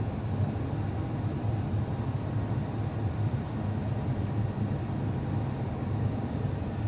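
Steady low rumble of cabin noise inside an Airbus A350-900 airliner in flight: airflow and engine noise heard from a seat in the forward cabin.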